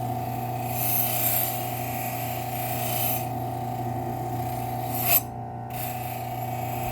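Bench-grinder buffing wheel running with a steady motor hum while a rusty knife blade is pressed against it to buff out rust. This gives a rushing, rasping hiss from about one to three seconds in and again briefly around five seconds.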